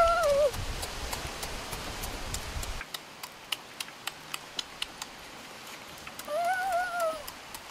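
A person chewing and smacking on roasted duck meat: a run of short wet clicks. About six seconds in, a short high pitched call rises and falls for under a second.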